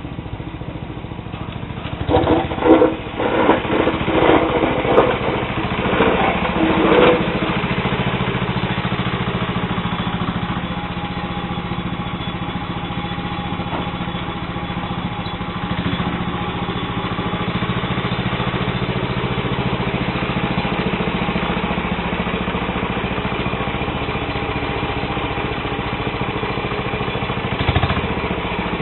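The 12 hp Tecumseh HH120 single-cylinder engine of a Sears Suburban SS12 garden tractor running steadily while the tractor pushes light snow with its blade. Several louder irregular bursts come between about two and seven seconds in.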